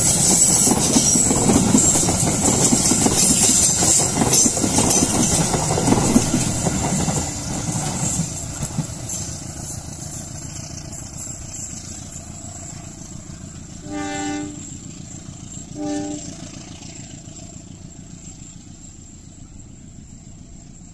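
Passenger train of the KAI Commuter Line Bandung Raya rumbling past on the rails with its wheels clattering, then fading steadily as it pulls away. About two-thirds of the way through, its horn sounds two short blasts from a distance.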